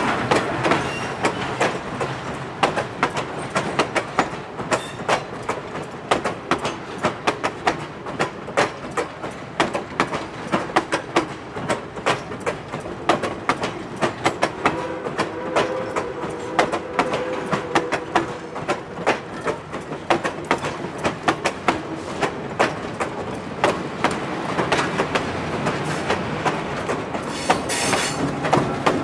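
Passenger coaches rolling past, their wheels clicking steadily over the rail joints, with a faint wheel squeal in the middle. Near the end the sound grows louder as a diesel locomotive passes.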